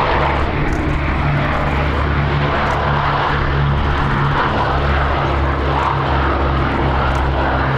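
Piston-engined, propeller-driven warbird flying past, its engine giving a loud, steady, low drone.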